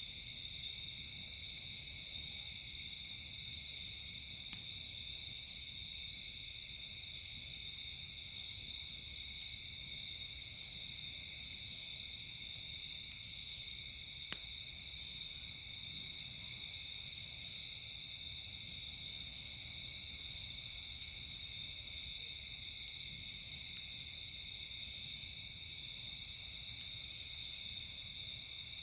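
A steady night chorus of insects trilling, with a higher buzzing insect call that repeats every five or six seconds and lasts a second or two each time. A couple of faint sharp pops from the campfire come through, one about five seconds in and one about fourteen seconds in.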